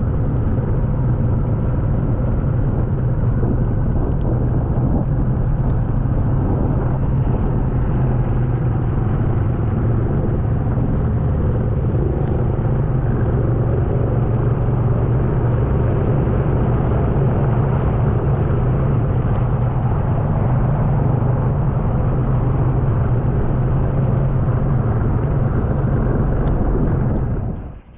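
A motor vehicle's engine running with a steady low rumble, unchanging for most of the stretch, then cutting off suddenly near the end.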